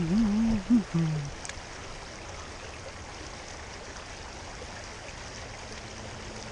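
Creek water running steadily over the streambed. A short wavering snatch of music ends about a second in.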